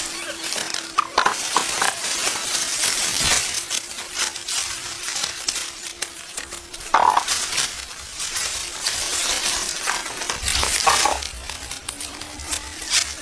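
Dry corn leaves and husks rustling and crackling as corn is picked by hand, with a few sharper snaps.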